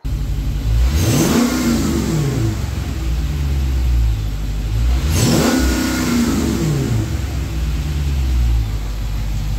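Dodge Challenger 1320 Scat Pack's 392 HEMI V8 running and revved twice, the engine note climbing and falling back about a second in and again about five seconds in.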